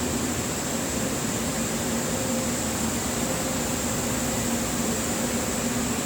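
Exhaust extraction system's blower fan running steadily as it times out, a constant hum with a steady low tone and even rushing air noise.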